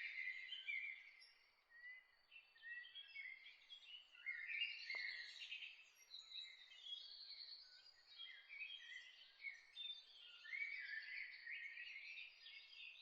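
Several songbirds chirping and trilling at once, a dense overlapping chorus of short high calls that never stops, with one faint click about five seconds in.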